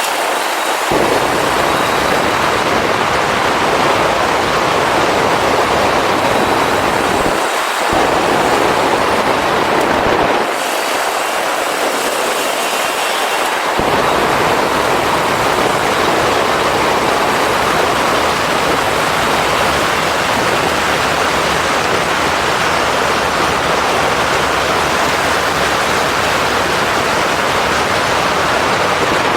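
Motorcycle riding at speed: a steady loud rush of wind over the camera's microphone with engine and road noise beneath. The low rumble drops away briefly near the start and about seven seconds in, and for about three seconds from ten seconds in.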